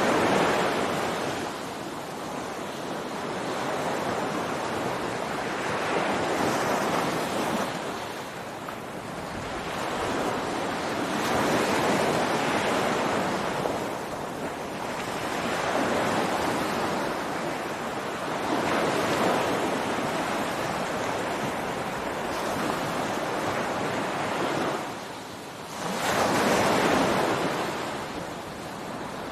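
Ocean waves breaking and washing up a beach, surging in and drawing back every few seconds, with the strongest wave near the end.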